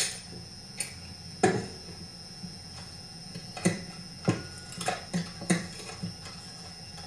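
Scattered light metal clicks and knocks, about seven spread irregularly, as bolts, the ignition coil and the rear shroud are handled and lifted off a McCulloch chainsaw during teardown.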